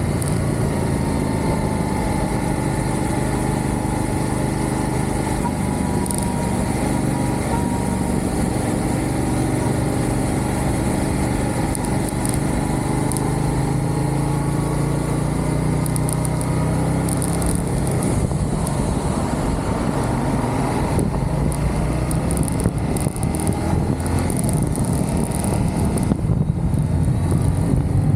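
Motorcycle engine running under way, its pitch drifting slowly down and back up at a steady level.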